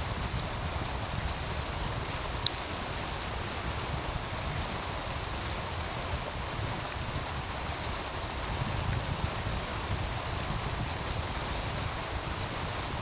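Meltwater stream running steadily, with a wood fire crackling in scattered sharp pops over it; one loud pop about two and a half seconds in.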